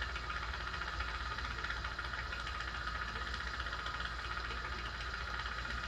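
Steady machine hum from running bench equipment: a constant low drone under a higher, even whirr, unchanging throughout.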